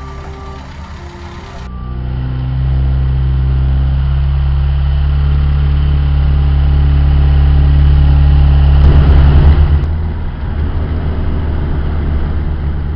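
Vintage Fiat 508 Balilla's engine running steadily as the car drives along and passes close by, loudest about nine seconds in. Background music in the first couple of seconds.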